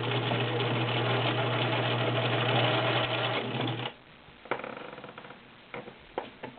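Viking Husqvarna Selectronic 6570 sewing machine running steadily in its regular gear, stitching a cam-driven stretch stitch, then stopping abruptly about four seconds in as the pedal is released. A few light clicks follow.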